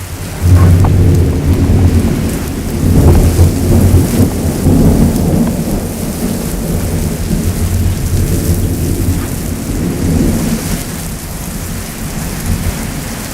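Heavy downpour of rain, with a loud rumble of thunder that breaks about half a second in and rolls on for several seconds, slowly fading.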